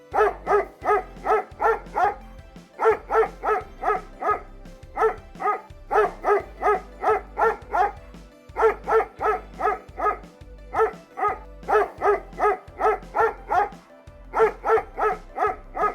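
Dog barking in quick runs of six to nine sharp barks, about four a second, with short pauses between the runs, over background music with a steady low beat.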